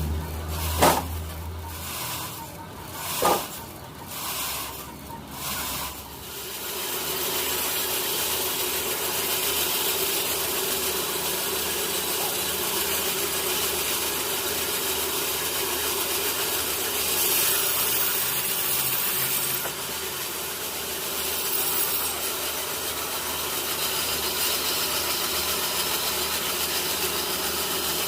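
A few sharp knocks in the first few seconds, then from about six seconds in a sawmill blade cutting steadily through a teak log.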